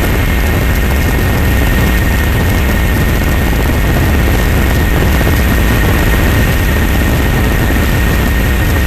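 A steady, loud engine drone with a heavy low rumble and a constant high whine, unchanging throughout.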